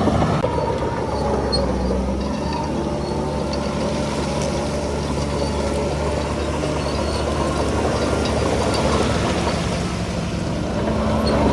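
Heavy diesel earthmoving machinery running steadily, a continuous low engine drone with faint scattered metallic clinks.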